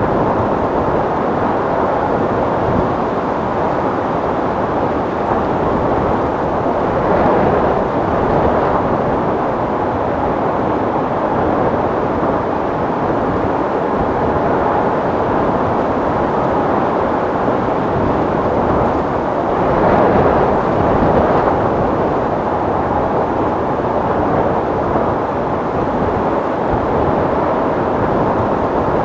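Wind blowing steadily in a dense rush, swelling in two gusts about seven and twenty seconds in.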